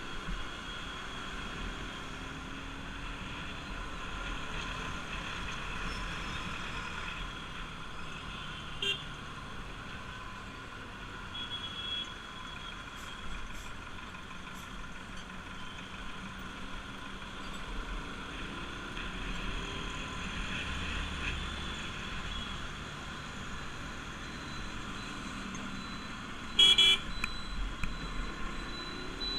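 Bajaj Pulsar RS200's single-cylinder engine running under way in road traffic, its pitch rising and falling with the throttle over steady road noise. A vehicle horn toots briefly about nine seconds in, and a louder burst of horn honks comes near the end.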